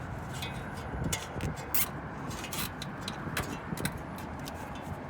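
Scattered clicks and light scrapes from hands working the wiring and zip ties, over a steady background hum.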